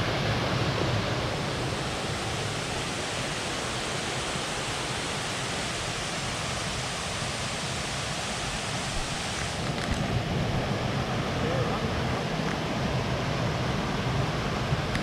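Steady rushing of a two-tiered waterfall, a dense even roar of falling water. About ten seconds in, its highest hiss drops away abruptly.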